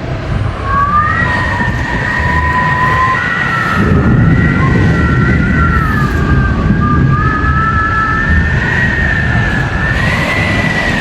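Several high, wavering whistling tones held for about ten seconds over the dense noise of heavy rain and strong wind: typical of wind whistling through the gaps of a closed window.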